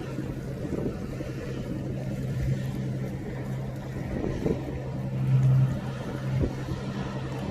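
A steady low engine hum, holding one pitch, that stops shortly before the end.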